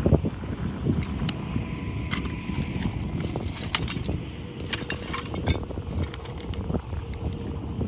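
Scattered light clicks and clinks of small hard objects being handled and knocking together, over steady wind noise on the microphone.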